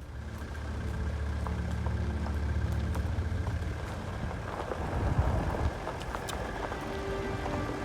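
An engine running steadily under a constant hiss.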